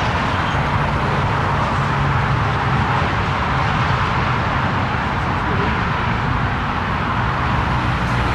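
Steady rush of jet engine noise with a low hum underneath, holding level.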